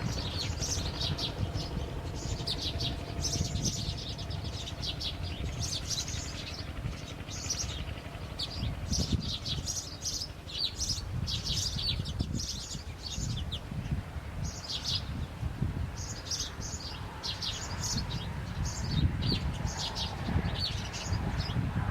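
Birds chirping: many short, high chirps in quick runs all the way through, over a steady low rumble.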